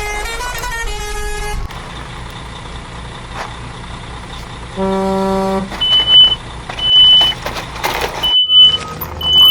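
A vehicle horn honks once, about five seconds in, then a reversing alarm beeps four times, about once a second. Before that, a short run of stepped electronic tones ends a little under two seconds in.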